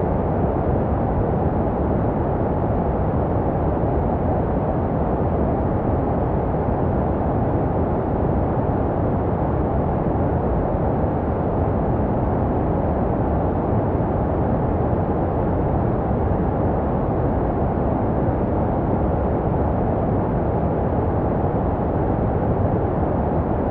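Steady baby-sleep white noise, filtered so that it sits low and muffled with little hiss, meant to resemble the sound heard in the womb. It holds the same level throughout, with no rhythm or tone.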